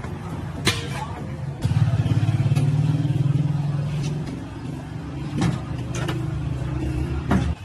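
A motor vehicle engine running close by, a low pulsing engine note that swells up about two seconds in and cuts off abruptly near the end. A few sharp knocks sound over it.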